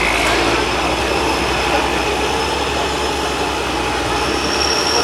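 Heavy truck running steadily with a thin high-pitched squeal over a dense, constant hiss; the squeal rises higher near the end.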